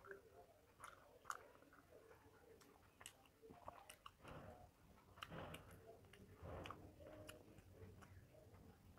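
Faint chewing and small mouth sounds of a person eating rice and fish by hand, with scattered soft clicks.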